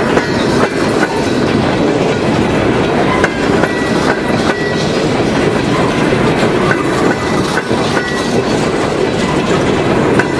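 Empty coal hopper cars of a freight train rolling past close by: steel wheels clicking over the rail joints in an uneven rhythm over a loud, steady rumble and rattle.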